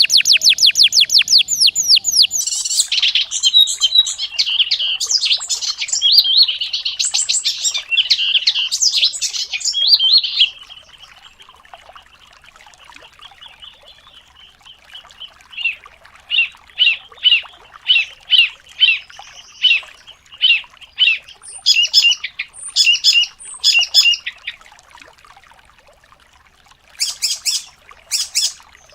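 Songbird song: a very fast trill of repeated falling notes, then a loud, varied warbling phrase, then quieter song. This gives way to a run of evenly spaced short whistled notes, about two a second, and a brief double note near the end.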